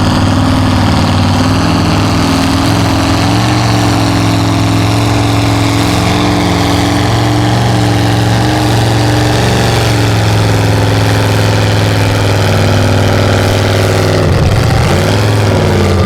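Mega truck engine running steadily, loud, with small shifts in pitch and a brief dip and rise in pitch near the end.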